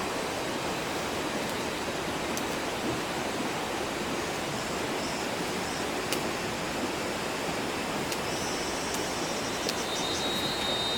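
Steady rushing of flowing water, with thin high tones in the last few seconds.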